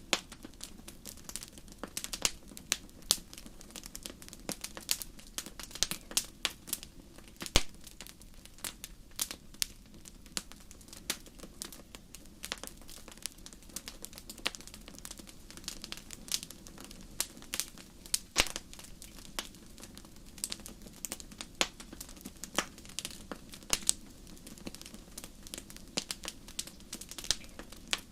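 Wood fire crackling in a fireplace: irregular sharp pops and snaps, a few louder ones, over a soft steady hiss.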